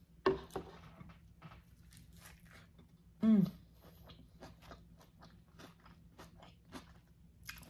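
Close-miked chewing of a bunless Flying Dutchman–style burger (beef patty, cheese and onion): a run of irregular small wet clicks and smacks, with a short hum from the eater about three seconds in.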